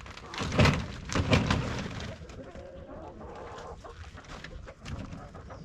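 Chickens clucking inside a mobile coop, with two louder clattering sounds about half a second and a second and a half in.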